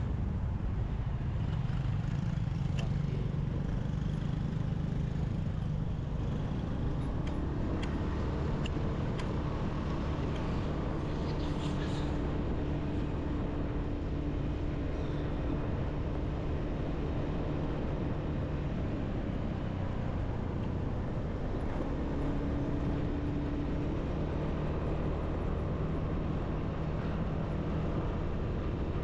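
Motorbike engine running steadily while riding through city traffic, with road and wind noise and a few short clicks about a third of the way in.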